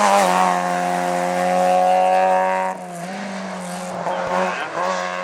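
Race car engine on a hillclimb, held at high, steady revs, then suddenly much quieter a little over halfway through and fading away.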